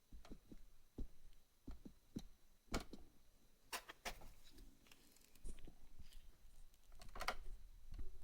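Irregular clicks, taps and knocks, like small hard objects being handled. The loudest come about three to four seconds in and again near seven seconds.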